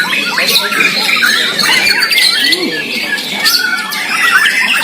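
Several white-rumped shamas singing at once, a dense, loud tangle of quick whistles, trills and harsh notes overlapping throughout.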